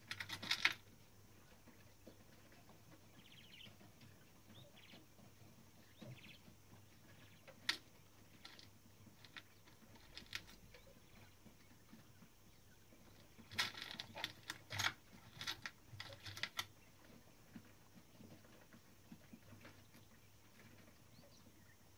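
Quiet, scattered light clicks and taps from hands working on the mechanism of a Klein Adler 2 typewriter, with a busier run of clicks a little past the middle.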